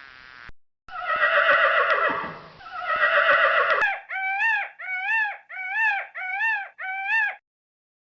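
Horse whinnying in two long calls, followed by a run of five short, identical rising-and-falling calls, evenly spaced.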